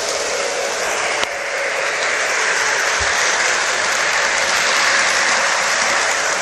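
Lionel Great Northern model steam train running on its track, a steady hissing rush of wheels and sound-system steam noise, with one sharp click about a second in.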